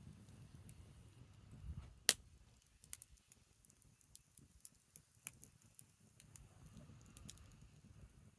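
Branches burning in an open fire, crackling with scattered sharp pops and one loud crack about two seconds in.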